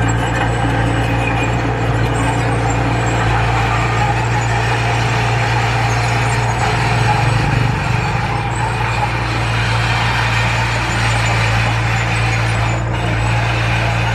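Heavy construction machine's diesel engine running steadily at a constant engine speed.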